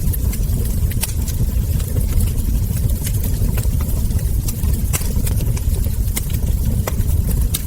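Wood fire crackling, with frequent irregular sharp pops and snaps from burning logs and embers over a steady low rumble of the flames.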